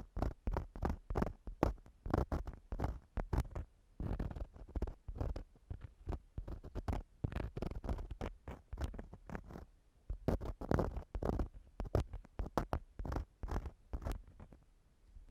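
Ear-cleaning tool scraping and rubbing inside a microphone's ear in quick short strokes, about two or three a second, with brief pauses about four and ten seconds in.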